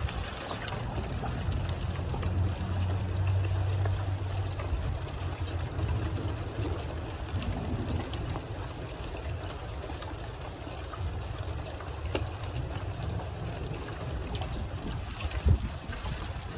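Storm wind buffeting the microphone as a steady low rumble, strongest in the first few seconds, over an even hiss of rain with a few faint ticks.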